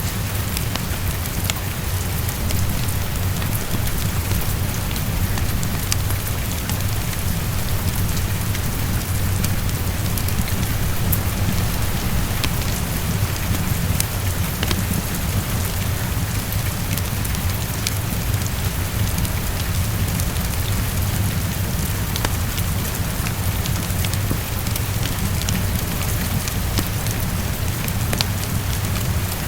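Heavy rain falling steadily against a window, with a constant low rumble underneath and scattered sharp crackles from a fireplace.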